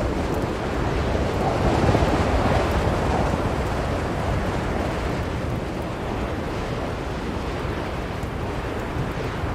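Strong blizzard wind blowing in a steady rush, swelling in a gust about two seconds in.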